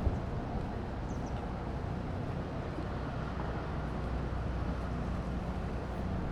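Steady low machine rumble, a constant pitched hum with its overtones, under a continuous outdoor hiss.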